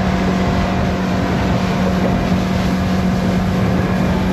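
Fishing boat's outboard motor running at speed, up on the plane, a steady engine tone over a loud rushing noise.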